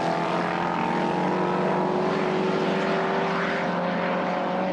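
Historic racing car engine running hard at a steady, sustained note, its pitch sagging slightly in the second half.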